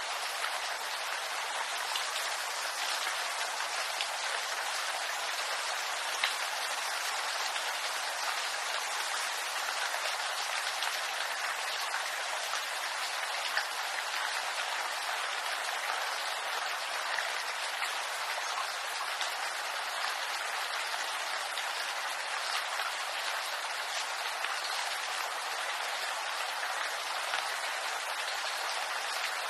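Steady rain falling on bamboo leaves, an even hiss with scattered sharper drop ticks.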